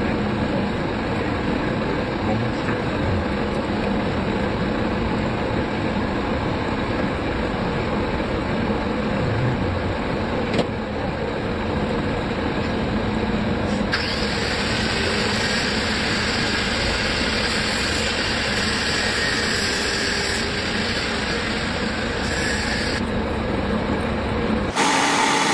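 Steady machine running noise, with a hum underneath; about halfway through a higher hiss joins it for several seconds, and near the end the sound changes abruptly.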